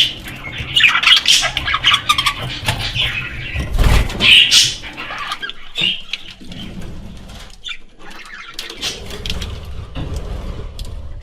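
Pet budgerigars chattering with chirps and squawks, busiest and loudest in the first half, thinning to scattered chirps later.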